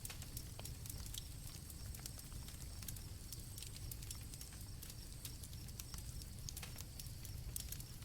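Campfire crackling with irregular sharp pops over a low rumble, with crickets chirping in a faint steady high trill.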